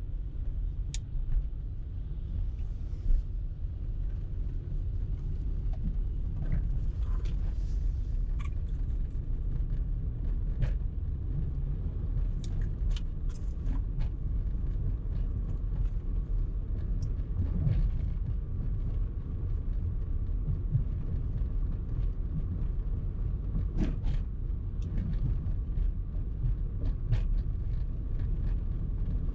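Car driving in traffic: a steady low rumble of road and engine, with scattered faint ticks and clicks.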